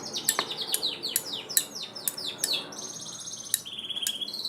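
A small bird singing: a run of quick downward chirps, then two rapid trills, the second one lower.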